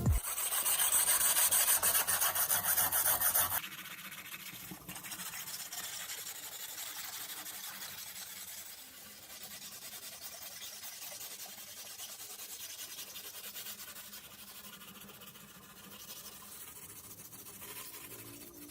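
Abrasive rubbing on a rusty part of an old electric table fan, as in sanding or scrubbing off rust: fast and loud for the first three and a half seconds, then quieter and steady.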